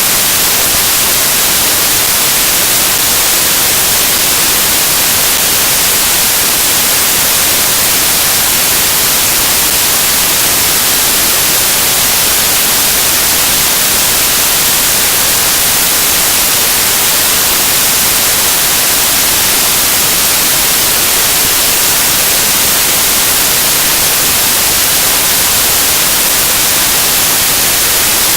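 Loud, steady static hiss with a bright, high-pitched edge, unchanging throughout, with no speech.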